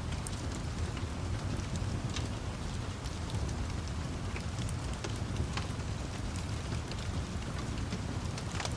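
Steady rain with a continuous low rumble, mixed with scattered sharp crackles and pops of a wood fire.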